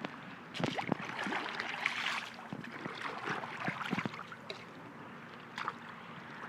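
Kayak paddle splashing and dipping in pool water, a run of irregular strokes that is busiest in the first four seconds and then eases off.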